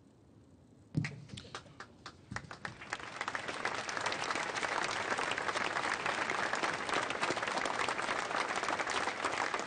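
Audience applause: a few scattered claps start about a second in, then quickly swell into loud, sustained clapping from a large crowd.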